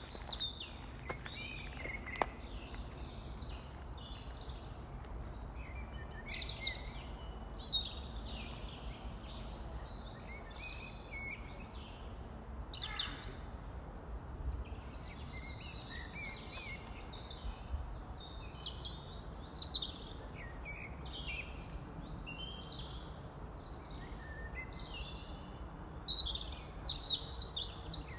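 Many small birds chirping and trilling in quick, overlapping calls, over a steady low rumble.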